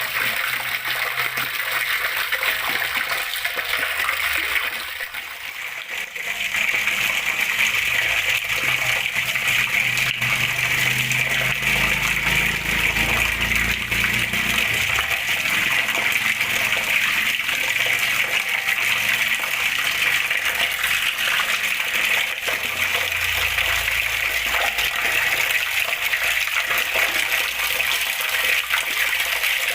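Water flowing and splashing steadily, a continuous rushing trickle. It drops briefly about five seconds in, then returns stronger.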